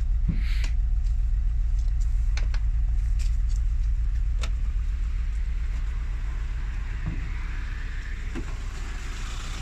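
1993 Renault 19's 1.8-litre four-cylinder petrol engine idling quietly with a steady low hum, left running after long standing to recharge a weak battery. Over it come a few sharp clicks and knocks from the bonnet release and latch as the bonnet is opened.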